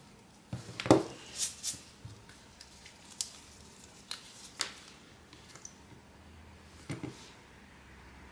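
Irregular sharp clicks and light knocks of small tools and phone parts being handled during a phone repair, the loudest cluster about a second in and another near the end.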